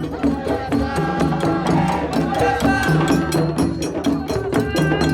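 Parade music: a group singing over a fast, steady beat of drums and percussion.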